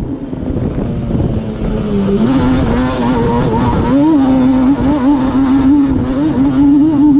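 Yamaha Banshee's twin-cylinder two-stroke engine, bored out with a Cheetah 426 big-bore kit, running hard at high revs while being ridden. The pitch dips about two seconds in, then climbs back and wavers up and down as the throttle is worked.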